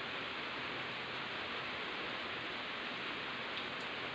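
Steady rain falling on leaves: an even hiss with no distinct drops standing out.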